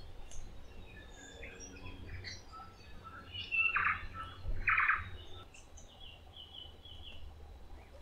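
Forest birds calling: scattered short chirps and whistles, two louder, rougher calls about four and five seconds in, and a quick run of about six short even notes near the end.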